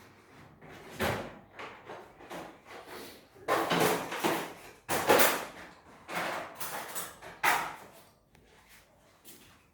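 Irregular knocks and scrapes of hard objects being handled and set down, with a busy cluster of them in the middle.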